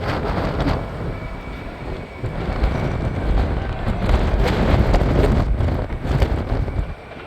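Fireworks display: rapid booms and crackling bursts overlapping into a continuous rumble, dropping off sharply near the end.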